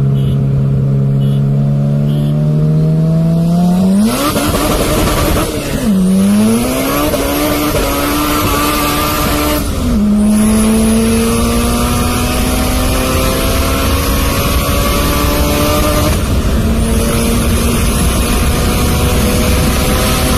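A car engine accelerating hard through the gears. Its pitch climbs steadily in each gear and drops sharply at upshifts about four, ten and sixteen seconds in, with a brief dip and recovery around six seconds.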